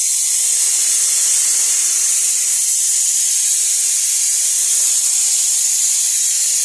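Steady, high-pitched hiss of a pressurised cleaning spray jet working on a car.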